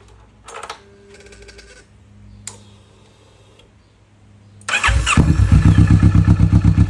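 Kawasaki Vulcan S parallel-twin engine being started: a few quiet seconds with some clicks and a brief whine, then the starter cranks nearly five seconds in and the engine catches and idles with an even, rapid pulse. It is run to circulate fresh oil after the oil change.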